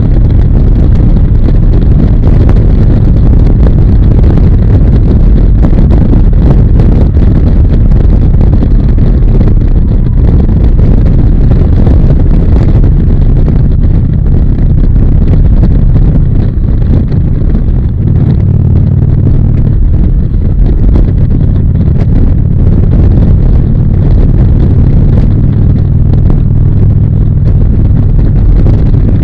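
Harley-Davidson V-twin motorcycle engine running at road speed, with heavy wind buffeting on the microphone. Its low engine note comes through a little more steadily after about seventeen seconds.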